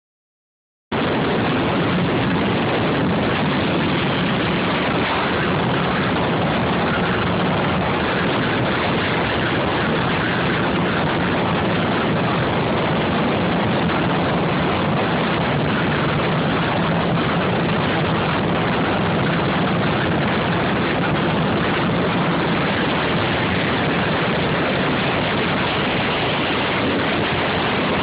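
Steady engine and road noise: a dense, unbroken rumble and hiss that starts abruptly about a second in and holds without rising or falling.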